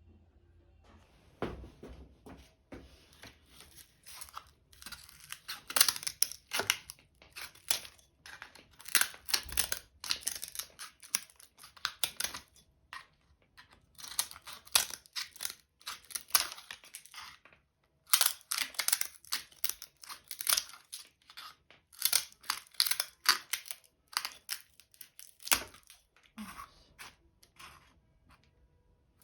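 Dry, brittle material being crinkled, crushed and snapped by hand: dense crackling in bursts with short pauses between handfuls.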